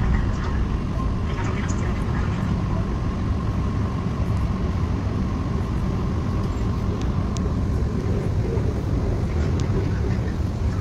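Steady low rumble of a moving vehicle, even throughout, with a faint steady tone above it.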